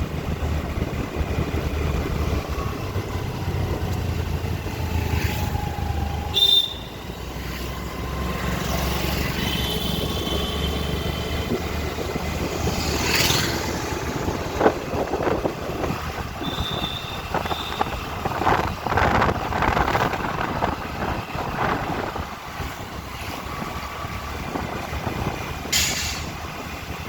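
Riding a Honda Activa 125 scooter through traffic: steady low engine and road rumble, with vehicles passing and a few short high beeps about 6, 10 and 17 seconds in.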